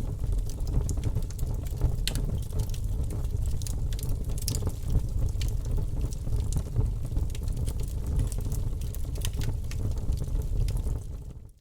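Fire burning in an open fireplace: a steady low rumble of flame with frequent irregular sharp crackles and pops. It fades out just before the end.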